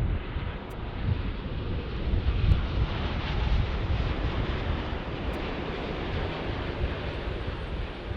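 Jet airliner engine noise: a loud, steady rumble with hiss that comes up sharply just before and holds.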